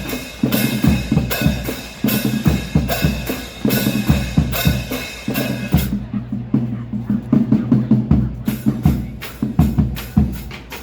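School marching band's percussion section playing a loud, driving rhythm on snare and bass drums. The bright high-pitched sound, likely cymbals, drops out about six seconds in while the drums keep going.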